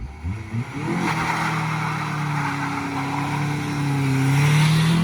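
Dodge Neon's four-cylinder engine revved in a few quick blips, then held at high revs with a steady drone that climbs slightly near the end before dropping off.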